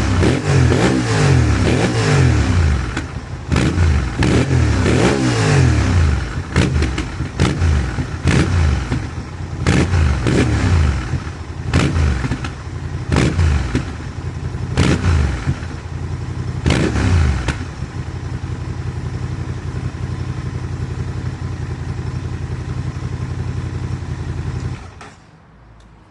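Honda Transalp XL750's 755 cc parallel-twin engine, breathing through an HP Corse SP1 titanium high exhaust with its dB killer fitted. It is blipped again and again at standstill, each rev falling back with sharp cracks. It then settles to a steady idle and is switched off near the end.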